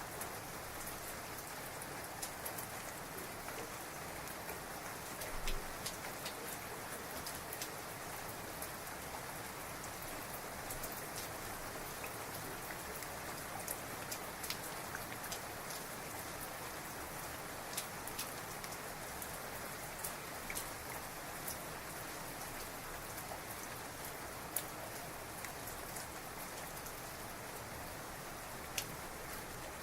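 Heavy rain falling steadily, with many sharp taps of single drops striking close by scattered through it.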